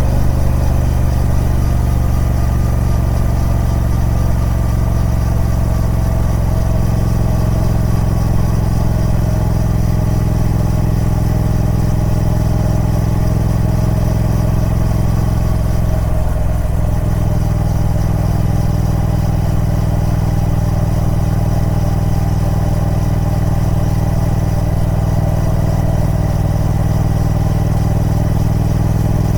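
Triumph Speed Twin 1200's 1200 cc parallel-twin engine running at a steady speed through its stock exhaust, with a brief change in the note about sixteen seconds in.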